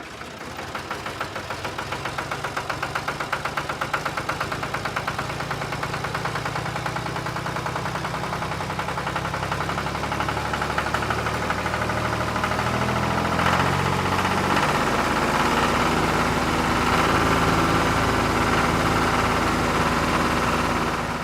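Small engine of a DIY mini tractor running steadily with a rapid pulsing beat, its pitch shifting now and then, fading out near the end.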